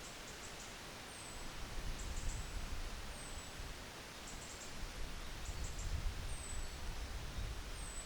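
Wind blowing over mountain terrain, its low noise swelling in two gusts, with a steady rustle. Short, high, thin chirps repeat about every two seconds, with faint ticking between them.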